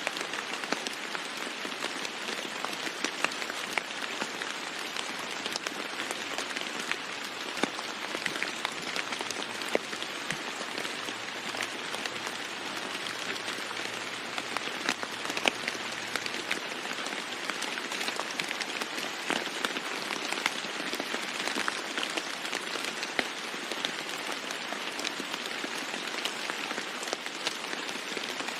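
Steady heavy rain falling on a roof: a dense even hiss with many sharp individual drop taps throughout.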